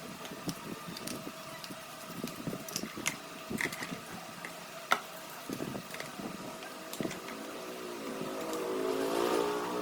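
Scattered light clicks and knocks of hands working on metal parts over a steady faint hum, with a pitched mechanical whine building up near the end.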